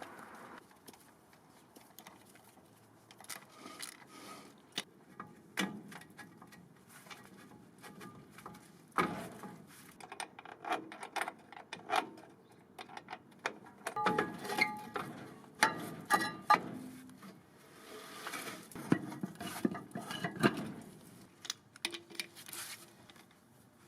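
Metal tools and parts clinking, clattering and knocking in irregular bursts during hands-on work on a seized wheel, some knocks ringing briefly.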